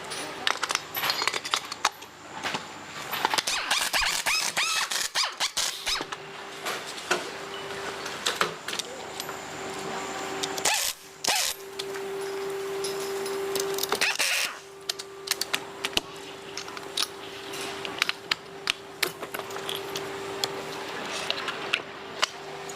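Hero Splendor motorcycle's drive chain being cleaned: many metallic clicks and rattles over a hiss. A steady hum runs under it from about a quarter of the way in, with a brief break near the middle.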